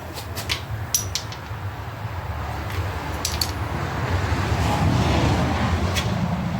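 Sharp metallic clinks and taps of steel engine parts being handled during a small-block engine teardown: several in the first second, a few more later. A steady low rumble runs underneath.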